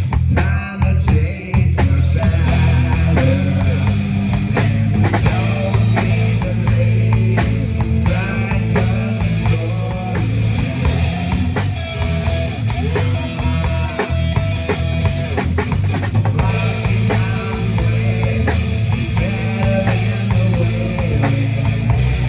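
Live rock band playing a song: electric guitar, bass and drum kit, with a steady beat.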